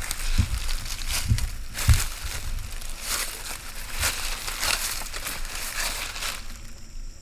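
Footsteps crunching slowly through dry leaf litter, a crunch every second or so, stopping about six and a half seconds in.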